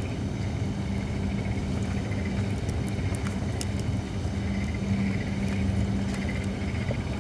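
Holly firewood burning in an open fire pit, with sparse crackles and small pops over a steady low rumble and hum.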